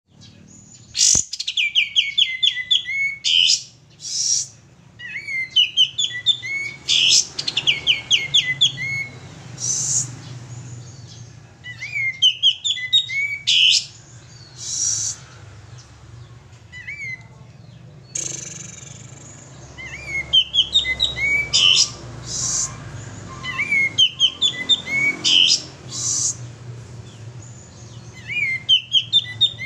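Male olive-winged bulbul (kapas tembak) singing in full voice. Phrases of rapid chattering, warbling notes come every few seconds, each ending in sharp high notes, over a steady low hum.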